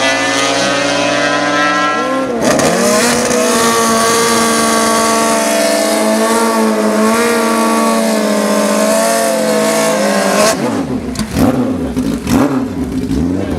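High-revving racing engines held at a steady high pitch that wavers slightly, with a sudden shift in note about two seconds in. Near the end the pitch sweeps quickly up and down.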